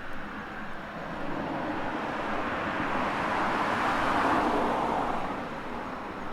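A car passing by on the street, its road noise swelling to a peak about four seconds in and then fading away.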